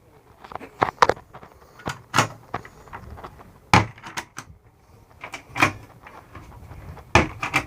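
Truck camper cabinet doors and latches clicking and knocking as they are opened and shut: about half a dozen sharp knocks, spread unevenly.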